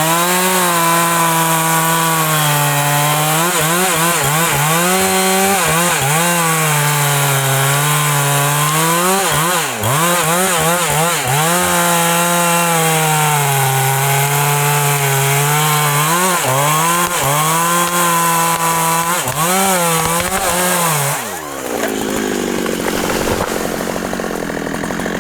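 Large two-stroke Husqvarna chainsaw cutting into the trunk of a big rain tree at full throttle, its engine note dipping and recovering again and again as the chain loads up in the wood. Near the end the engine note falls away.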